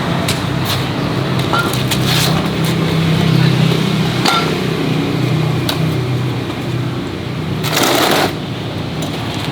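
A steady low mechanical hum with scattered sharp metallic clicks and knocks, and a short burst of hiss about eight seconds in.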